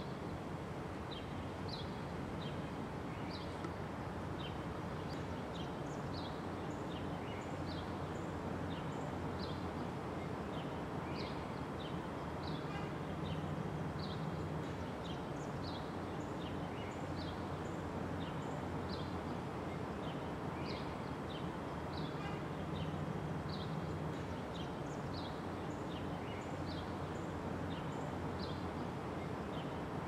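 Small birds chirping, short high chirps about one or two a second, over a steady low rumble of distant city traffic that swells twice in a low hum.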